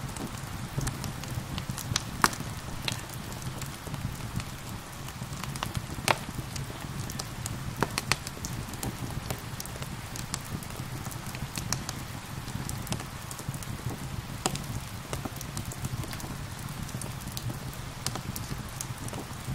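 Wood fire crackling with irregular sharp pops, a few louder ones, over a steady low rumble and the even hiss of rain.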